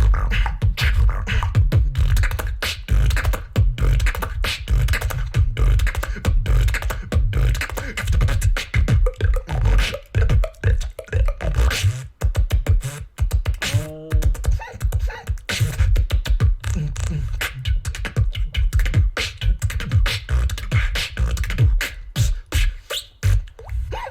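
Human beatboxing: fast, dense mouth percussion over deep bass kicks, with a short wavering pitched tone about fourteen seconds in.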